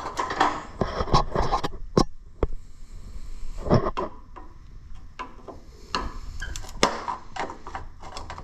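Irregular clicks, knocks and scrapes of an old tail light being pried and worked loose from a 1970 Wheel Horse GT 14 garden tractor.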